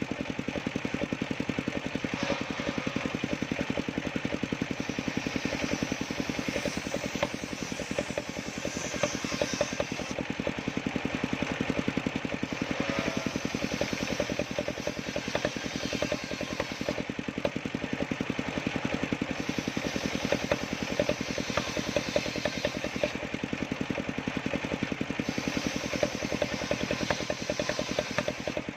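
Engine of a homemade wood sawmill running steadily with an even, fast firing pulse.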